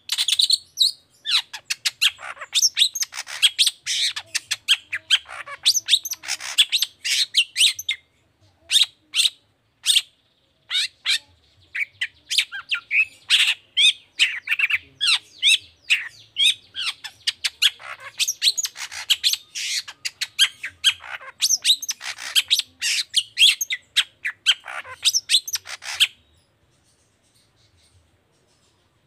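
Long-tailed shrike (cendet) singing: fast runs of short, harsh, scratchy notes and chatter. It thins out briefly about eight seconds in and stops about three seconds before the end.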